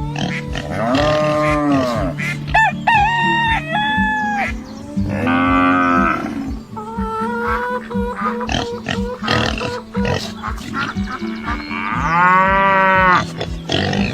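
Farm-animal calls over background music with a steady beat: a few long calls that rise and fall in pitch, about a second in, near the middle and near the end.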